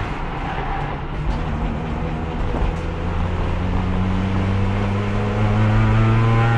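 Race car engine heard onboard, held in fourth gear because the transmission has lost third and won't shift at speed. Its note climbs slowly and steadily from about two seconds in, growing louder, over wind and road noise.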